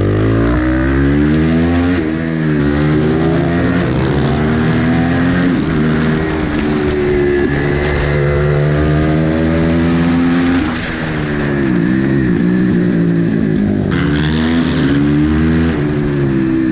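Supermotard motorcycle engine at racing speed, its revs climbing and dropping again and again as the rider accelerates, shifts gear and brakes for corners.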